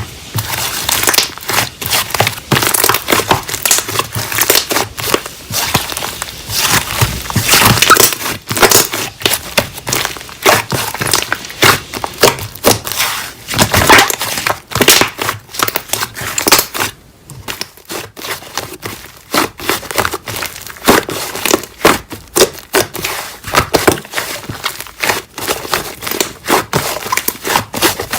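Slime being squeezed and pressed by hand, giving a dense, irregular run of crackles and pops, with a brief lull about seventeen seconds in.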